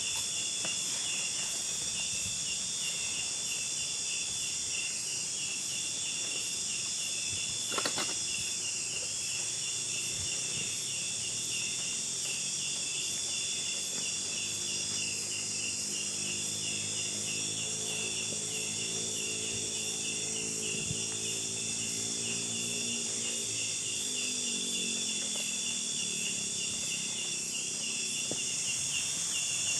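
Continuous chorus of insects: a fast pulsing trill over a steady high hiss. A faint low drone joins about halfway through and slides down in pitch near the end, and there is one sharp click about eight seconds in.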